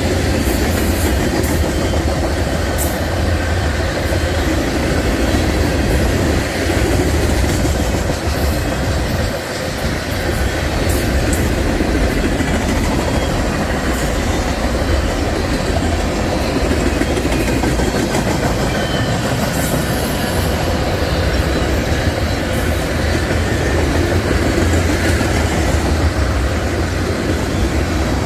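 Railcars of a passing train rolling by: a steady, loud rumble with the clatter of wheels over the rails and scattered sharp clicks.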